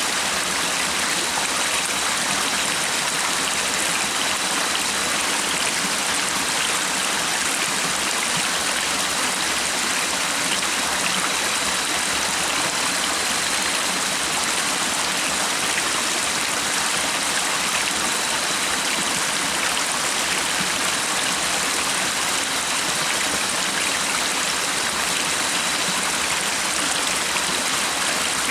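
A stream of water flowing steadily, an even rushing splash with no pauses. A faint, steady high tone runs faintly beneath it.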